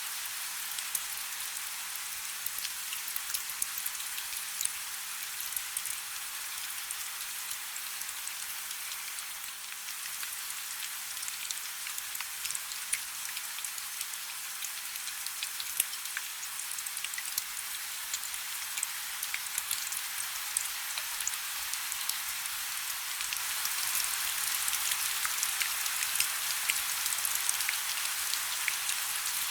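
Steady rain falling: a dense hiss with many individual drops ticking through it. It grows a little heavier and louder a few seconds before the end.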